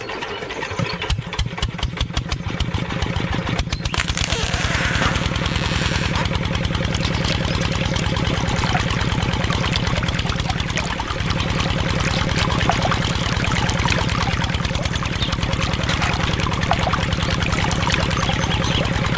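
Small single-cylinder diesel engine starting up. Its firing beats quicken over the first few seconds and then settle into a fast, steady chugging. A brief hiss comes in about four seconds in.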